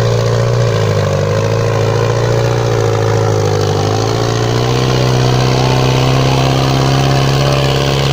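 Diesel tractor engine running steadily, its pitch rising slightly about four seconds in.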